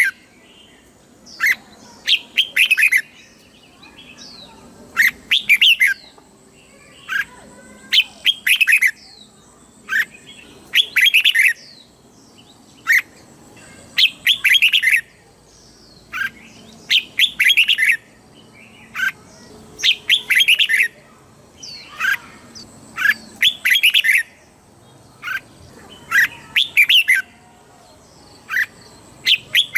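Red-whiskered bulbul singing short, bright warbled phrases, one every one to three seconds, with a faint steady high whine underneath.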